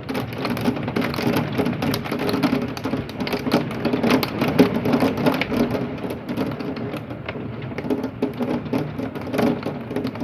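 Hail and heavy rain pelting a window and house, a dense, unbroken clatter of many small hard impacts over the hiss of rain. The hailstones sound large, which the speaker takes for golf-ball sized hail.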